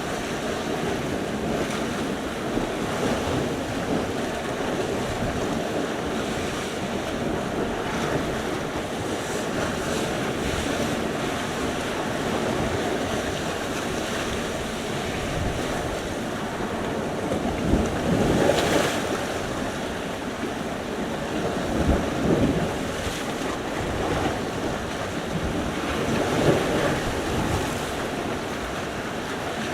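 Sea surf: waves washing in steadily, with a few louder breakers, and wind buffeting the microphone.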